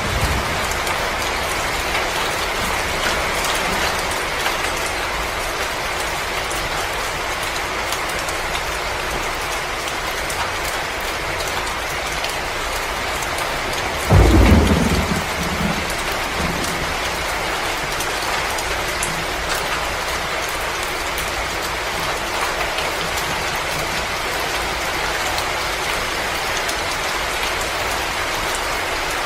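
Steady storm ambience: an even hiss like rain with fine crackles, broken about halfway through by a loud, low roll of thunder that sinks and fades over a couple of seconds.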